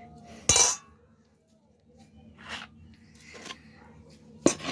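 Cutlery clinking against a dish: a sharp clink about half a second in and another near the end, with faint handling sounds between.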